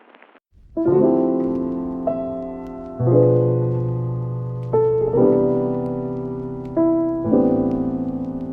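Background music: soft piano-led track, sustained chords struck about every two seconds and fading between them, after a brief near-silent gap at the start.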